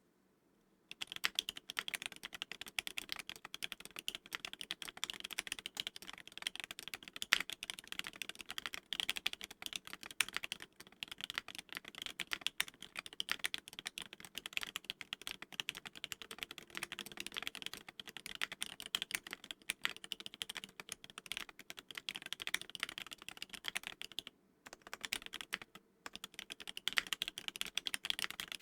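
Mechanical keyboard being typed on quickly: a KBDFans Tofu case modded to gasket mount, with lubed and filmed Soho linear switches under GMK keycaps, giving a dense stream of keystrokes. Typing starts about a second in and breaks off twice briefly near the end.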